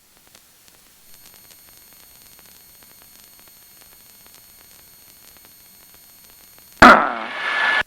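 Faint, steady static hiss on a helicopter's cockpit intercom and radio feed, with a few thin high tones. Near the end a loud burst cuts in suddenly as the channel opens.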